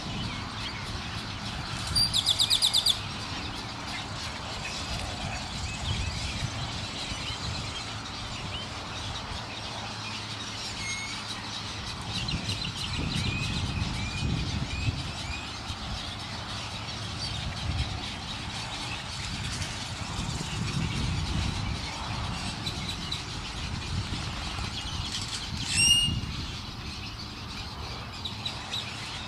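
Birds calling in the wild: a loud, rapid high trill about two seconds in, scattered short chirps around the middle, and one sharp call near the end. Under them runs a steady low rumble.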